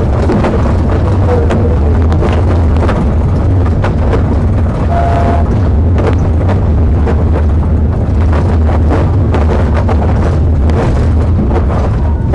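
Loud, steady engine, tyre and wind noise of a police car driving at high speed in a pursuit, with frequent short crackles and knocks over it.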